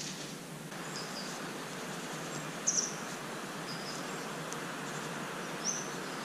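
Outdoor ambience: a steady background hiss, with birds giving short, high chirps every second or so. The loudest pair of chirps comes a little under three seconds in.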